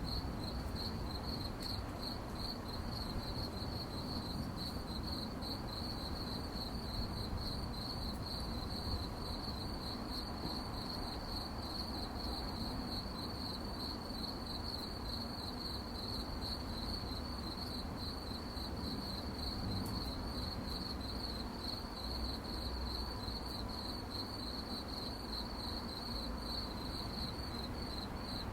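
Crickets chirping in a continuous chorus, a high-pitched, rapidly pulsing trill that holds steady, over a low, steady background rumble.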